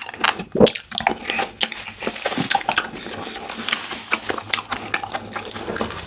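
Close-miked chewing with the mouth closed: an irregular run of soft, wet mouth clicks and squelches as a mouthful of food is worked.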